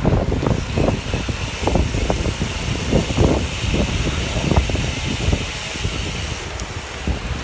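Wind buffeting the microphone while riding a bicycle at speed: a steady rushing hiss with irregular low gusty thumps.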